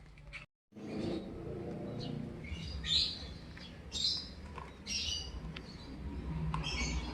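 Birds chirping, short calls about a second apart, over a steady low rumble.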